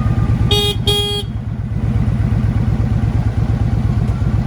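A vehicle horn sounds two short toots in quick succession, over an engine idling with a steady low pulse.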